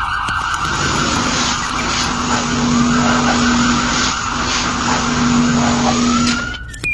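A vehicle sound effect: an engine running steadily under a loud, skidding hiss, cutting off shortly before the end.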